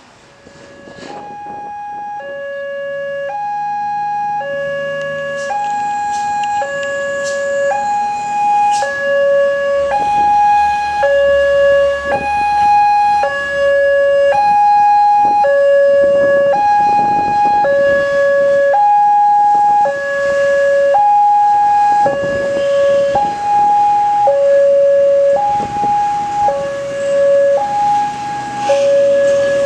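Railway level-crossing warning alarm sounding: an electronic two-tone hi-lo signal, each tone held about a second. It starts about a second in and swells over the first few seconds before holding steady, warning of an approaching train.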